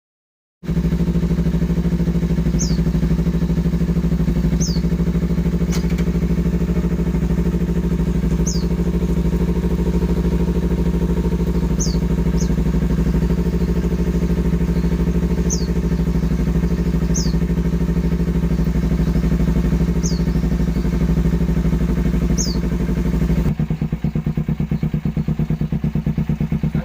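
Kawasaki motorcycle with an R9 aftermarket exhaust idling steadily at a constant pitch, shifting about 23 seconds in to a lower, more pulsing rumble. Short high chirps come every second or two over it.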